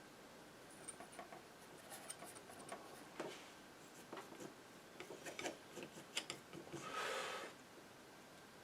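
Painting knife dabbing and scraping paint on a canvas: scattered light taps and clicks, with one longer scrape about seven seconds in.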